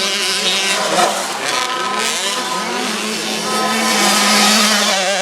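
Several 65cc two-stroke motocross bikes racing, their engines revving up and down over one another.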